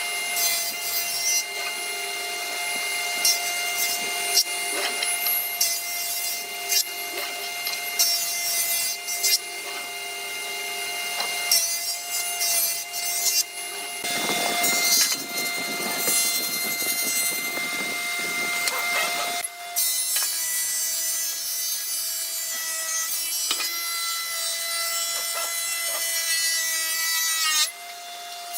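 Wood being worked with hand tools: irregular sawing and rubbing strokes on wood, with a steady hum underneath.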